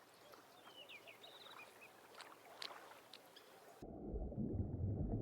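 Quiet outdoor ambience with a few faint, short high chirps and clicks. About four seconds in, a louder low rushing noise cuts in abruptly.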